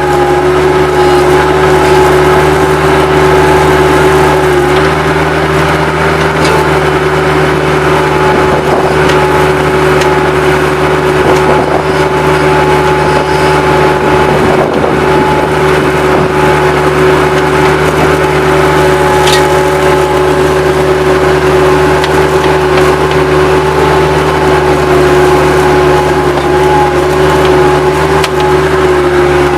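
Bobcat 763 skid steer's diesel engine running steadily under throttle, with a steady high tone over it.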